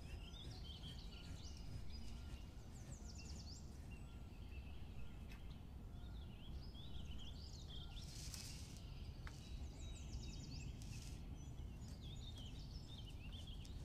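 Small birds chirping over and over, short rising and falling notes and quick trills, over a steady low background rumble. Two brief hissy rustles, about eight and eleven seconds in.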